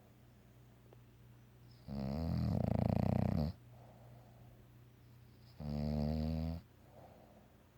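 Sleeping bulldog snoring: two loud, buzzy snores, a longer one about two seconds in and a shorter one about six seconds in, with quiet breathing between.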